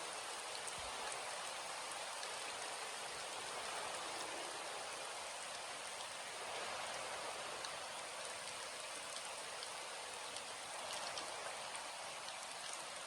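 Steady rainfall, an even patter of drops with occasional distinct drop ticks.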